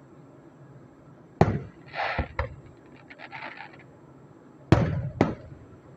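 Fireworks shells bursting: a loud bang about a second and a half in, then smaller pops and a short stretch of crackling, and two more bangs near the end, about half a second apart.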